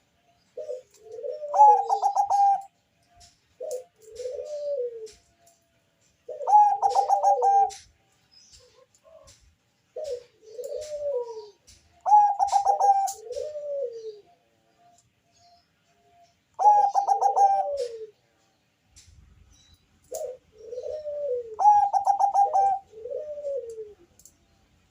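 Zebra dove (Thai-bred 'Bangkok' perkutut) singing its full song five times, about every five seconds. Each phrase opens with a quick stuttering run of notes and ends in several low, rounded coos. Faint high chirps come in between.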